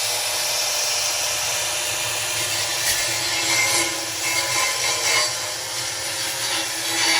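Angle grinder grinding steel: a steady, loud grinding noise that swells a little as the disc bites harder.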